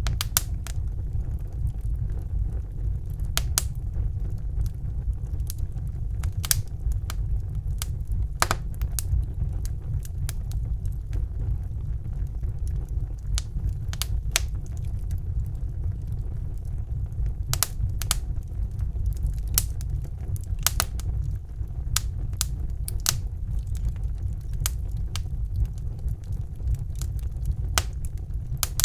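Wood fire burning in a brick fireplace: a steady low rumble of the flames with frequent sharp, irregular pops and crackles from the burning logs.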